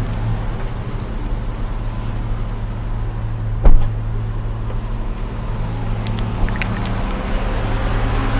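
Car engine running, heard from inside the cabin as a steady low hum, with one sharp knock about three and a half seconds in.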